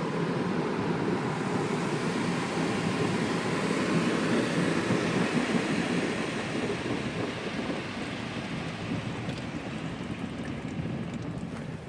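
Car wash running: a steady rush of spraying water or blowing air that fades gradually over the second half.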